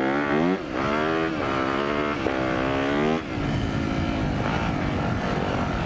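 Yamaha YZ250F single-cylinder four-stroke motocross engine accelerating hard, the revs climbing and dropping several times in quick succession as it shifts up through the gears, then running steadier from about three seconds in.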